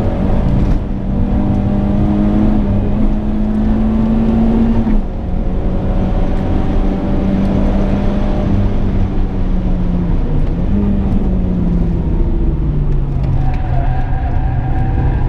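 Renault Clio 172's 2.0-litre four-cylinder engine heard from inside the cabin under hard driving on track. Its note climbs steadily for about five seconds, drops sharply, holds fairly steady, then falls lower near the end, where a faint high whine joins in.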